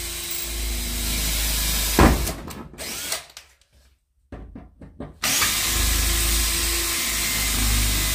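Cordless drill-driver running in two bursts of about three seconds each, backing out the screws of a car's licence plate. Each run ends with a sharp click.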